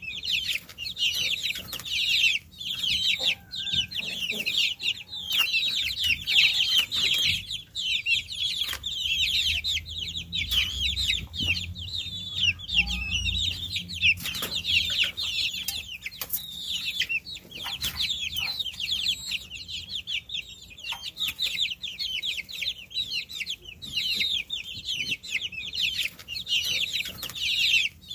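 A group of baby chicks peeping continuously: many short, high, falling cheeps overlapping without pause.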